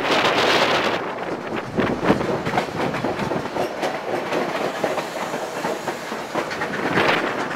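Narrow gauge train running on the rails, heard from aboard: a steady rattle and rush with the wheels clicking over the rail joints.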